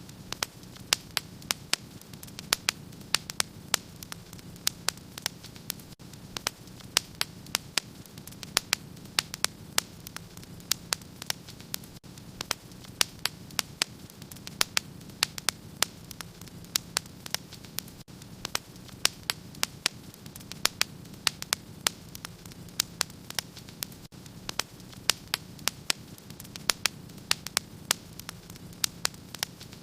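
Wood fire burning in a fireplace: a steady low rush of flames with irregular sharp crackles and pops, several a second.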